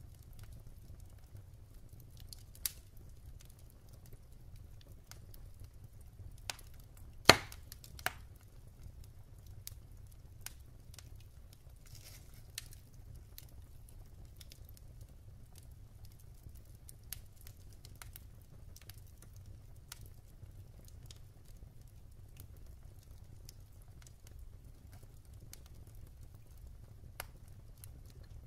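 Wood fire crackling in a fireplace: scattered sharp pops and ticks of burning logs, one loud pop about seven seconds in, over a low steady rumble.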